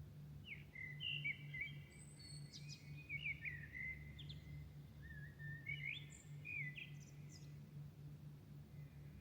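A songbird singing two varied, warbling phrases of quick whistles and glides, with a short pause between them, at dawn. A steady low hum runs underneath.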